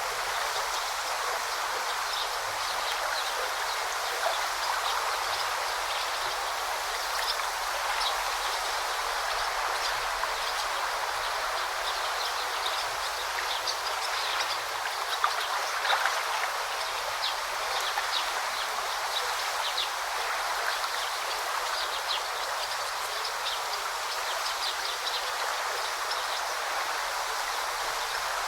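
A stream running and babbling steadily, with small birds giving short, high chirps again and again over the water.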